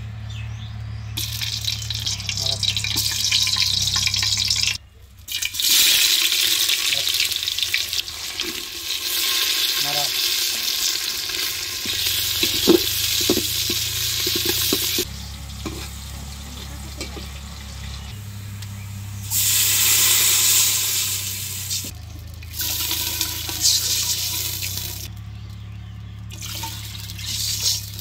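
Spices and onions sizzling in hot oil in an aluminium cooking pot while a spatula stirs them, heard as long spells of loud hiss with a few light scrapes. About twenty seconds in a louder hiss sets in as water goes into the hot pot.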